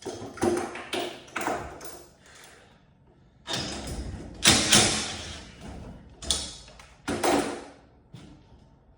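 Several knocks and thumps, with a longer, louder clattering stretch in the middle, about four seconds in.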